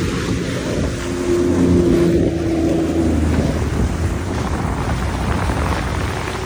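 Watercraft engine running with a steady hum that is strongest in the first half, with wind buffeting the microphone.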